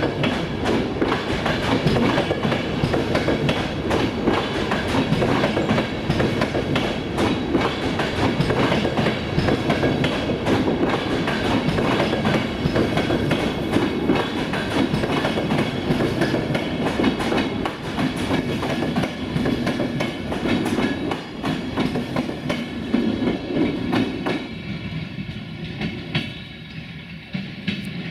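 Passenger coaches of a long train rolling past on the track, wheels clattering over rail joints and points in many sharp clicks. About 25 seconds in the sound starts to fade as the last coach moves away.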